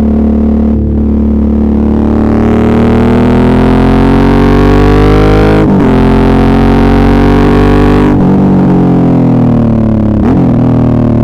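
Suzuki V-Strom 650's 645 cc V-twin accelerating hard, its pitch climbing, then dipping briefly at a gear change about halfway through and climbing again. Near the end the throttle is rolled off and the revs fall, with another brief break at a second shift.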